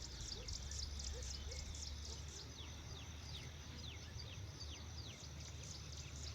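A flock of birds chattering together: a dense run of short, high chirps that fall in pitch, several a second, over a steady low rumble.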